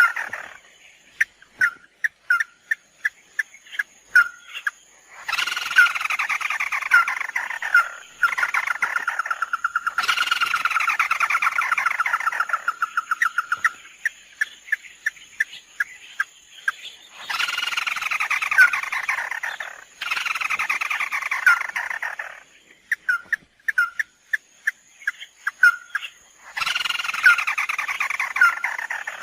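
Bird calls from a lure recording of the bird sold as 'mắt đỏ': runs of fast trilled notes sliding down in pitch, each lasting two to three seconds, alternating with spaced single sharp notes.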